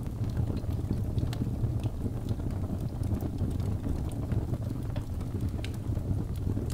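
Wood fire burning in a fireplace: a steady low rush of flame with sharp crackles and pops at irregular moments.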